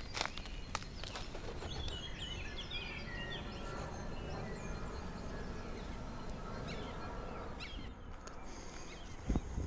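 Wild birds chirping and singing in quick, rapid phrases over a steady low rumble. The birdsong fades near the end, where the sound changes abruptly and a couple of knocks follow.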